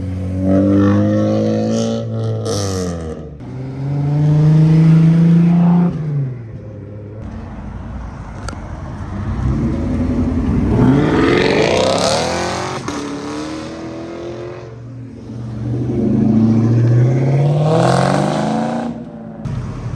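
Car engines revving and accelerating hard several times. There is a held rev a few seconds in, then a long climb in pitch near the middle, and another climbing pull near the end.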